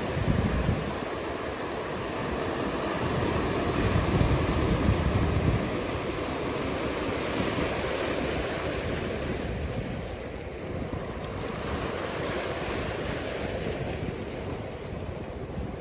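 Ocean surf breaking and washing, a steady noisy wash, with wind buffeting the microphone in low gusts, strongest in the first few seconds.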